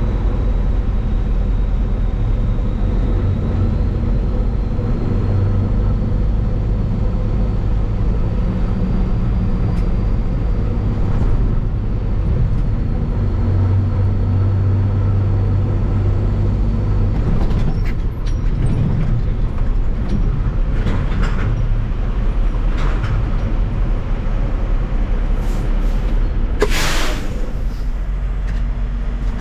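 Engine and road noise of an International truck towing a trailer: a steady low drone whose pitch shifts a few times. In the last ten seconds come several short hisses, the longest and loudest about three seconds from the end.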